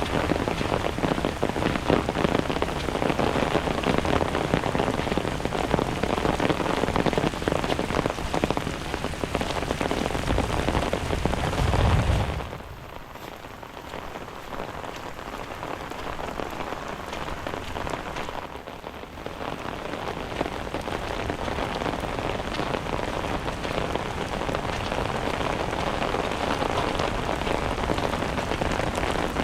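Steady heavy rain falling and pattering on surfaces. About twelve seconds in it drops sharply quieter for several seconds, then builds back up.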